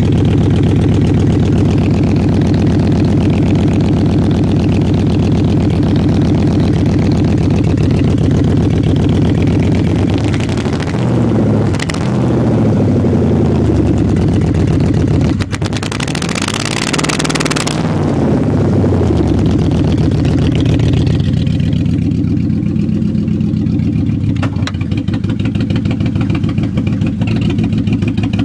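1996 Mercury Grand Marquis 4.6-litre V8 running open through straight headers with no muffler. It idles, is revved up and back down about ten seconds in, and again, harder, about sixteen seconds in, then settles back to idle.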